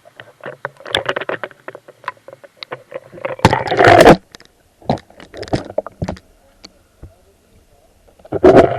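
Irregular water splashing in a shallow mountain stream, with scattered sharp splashes and two heavy bursts, about three and a half seconds in and again near the end.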